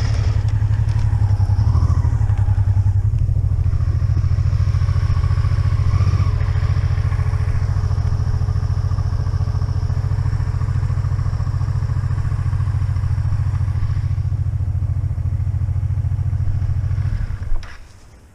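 Motorcycle engine running steadily at low revs with a deep pulsing exhaust note, then shut off abruptly near the end.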